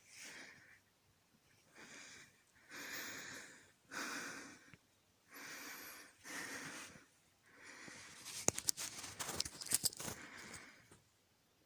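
A man breathing hard into the microphone in a run of heavy breaths about a second apart, out of breath from climbing a makeshift ladder. About eight seconds in come a few seconds of sharp crackling clicks.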